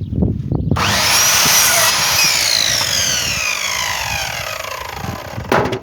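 Electric power saw starting up about a second in and cutting through a piece of wood. Its whine then falls slowly as the blade spins down, and a sharp knock comes near the end.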